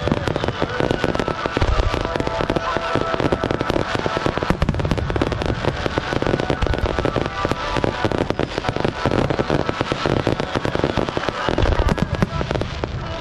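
Fireworks display: a dense, unbroken run of bangs and crackles from bursting shells and low crackling effects, with heavier booms a couple of seconds in and again near the end.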